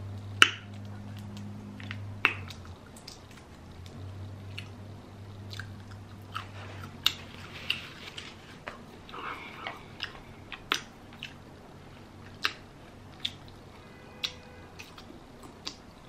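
Close-miked eating sounds of shrimp being chewed, with scattered sharp clicks and smacks every second or so. A paper napkin rustles briefly about nine seconds in.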